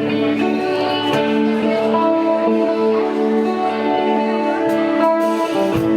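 Live rock band's opening of a song: guitar notes ringing out in a slow, steady progression, with light cymbal strokes.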